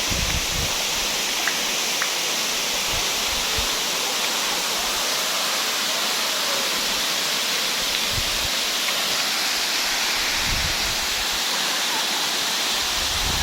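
Steady rush of flowing water, with a few brief low rumbles.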